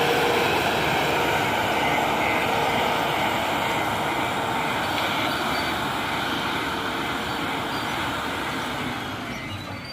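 JCB backhoe loader's diesel engine running steadily, fading over the last second or so.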